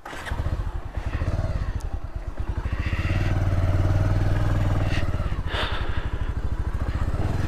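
Motorcycle engine running under way, its firing pulses steady, growing louder about three seconds in.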